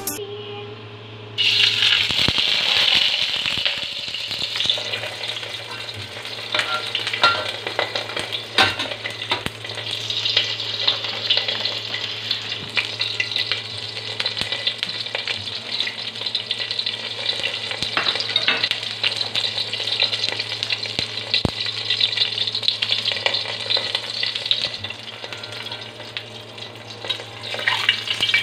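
Korean vegetable pancake frying in hot oil in a pan. The sizzle starts up about a second and a half in as the pancake goes into the oil, then keeps going steadily with a few sharp clicks, easing off briefly near the end.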